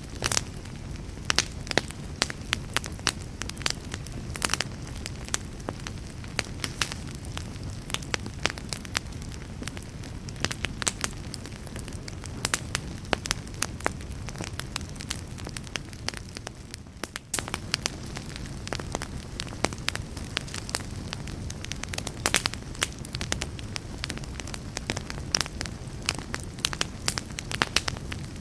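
Campfire burning, with a steady low rumble under frequent, irregular sharp crackles and pops. The sound dips briefly about two-thirds of the way through.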